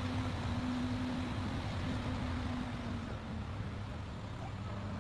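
Heavy truck engine running steadily with a low drone.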